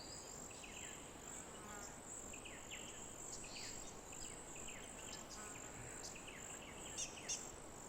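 Blue-faced honeyeaters calling in short, falling chirps, faint, over a steady high insect buzz. Two sharp clicks sound near the end.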